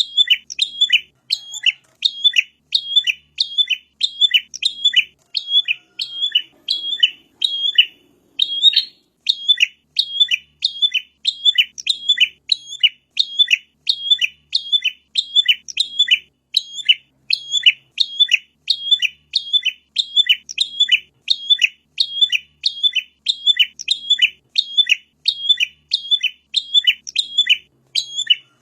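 Prinia (prenjak) calling: a steady, fast series of sharp, high chirps, about two to three a second, repeated without letup.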